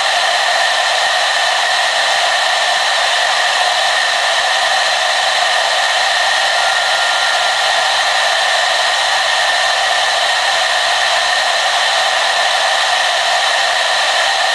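Hair dryer blowing steadily: an even, unchanging rush of air with a fan whine running through it.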